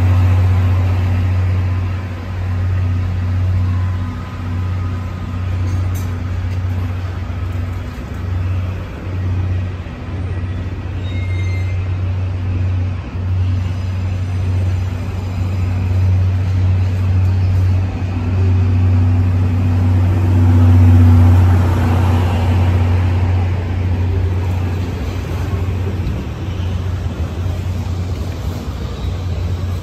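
Passenger train coaches rolling slowly past along a station platform and then pulling away, with a steady low rumble and hum that swells and eases.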